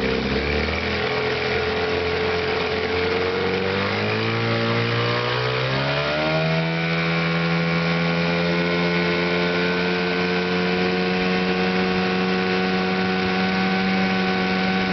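1987 Evinrude 15 hp two-cylinder two-stroke outboard running. It speeds up smoothly from about four to six seconds in, then holds steady at the higher speed. The freshly serviced motor runs well.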